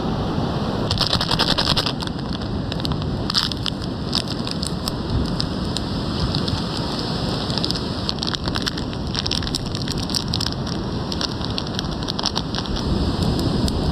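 A small fire of twigs and coconut shell crackling with irregular sharp snaps that come in clusters, over a steady rush of surf and wind.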